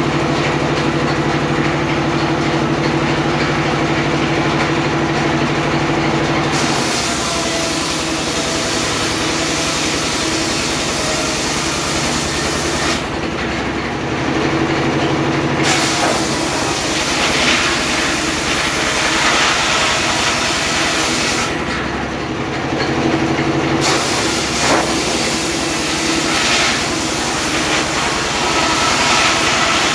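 Homemade circular sawmill running steadily, its blade cutting teak: the ripping noise comes in about six seconds in and drops back twice briefly to the machine's steady hum between passes.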